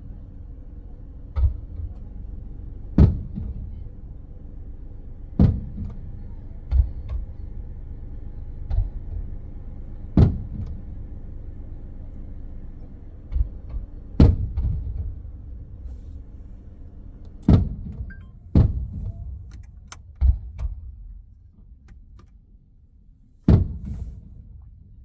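Fireworks shells bursting, heard muffled through the car's body: about a dozen booms spaced one to four seconds apart, over a steady low hum that fades after about twenty seconds.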